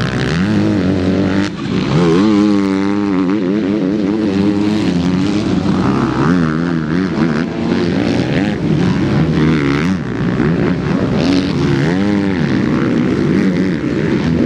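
Several motocross bikes racing, their engines revving up and down again and again as they are throttled through the track's turns and jumps.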